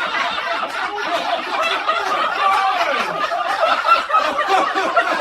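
Several people laughing and chuckling together after a joke, in continuous overlapping laughter.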